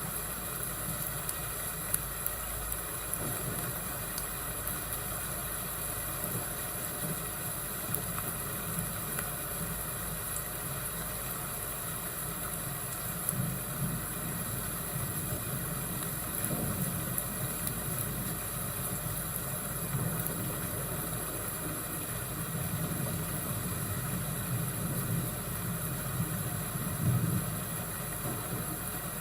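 Fireplace and thunderstorm ambience: a steady hiss with a few sharp crackles and a low rumble of thunder that swells and fades several times in the second half.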